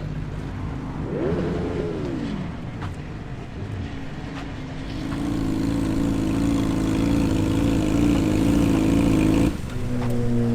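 Superbike engine revving: a quick rev that rises and falls about a second in, then revs held steady at a higher pitch for several seconds before dropping back near the end.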